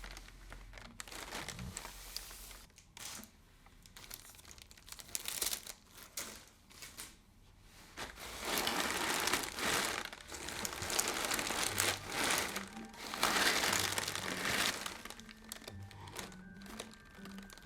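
Crinkling of a crinkly material handled close to the microphone, in uneven waves, loudest in two long stretches in the middle.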